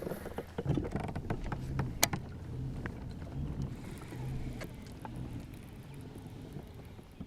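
Knocks and clatter of gear being handled in a kayak, with a sharp click about two seconds in and a low on-and-off hum underneath.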